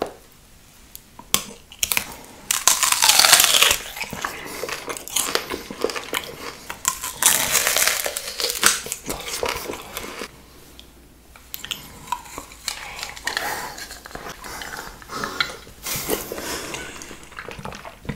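Close-miked biting and chewing of a black candy apple, the hard candy shell crunching. The loudest crunching comes in bursts about three seconds in, around eight seconds, and near the end, with quieter chewing between.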